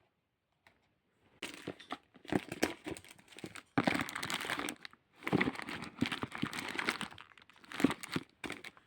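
Crinkling and crumpling in irregular bursts full of small crackles, starting about a second and a half in.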